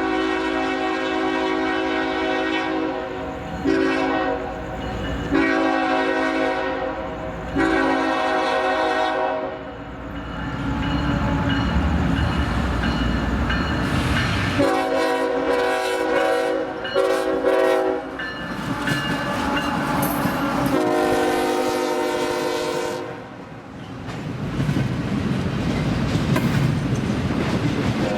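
Freight locomotive's multi-chime air horn sounding a series of blasts, several in quick succession and then a few more after a pause, with the rumble and clickety-clack of the train on the rails between them.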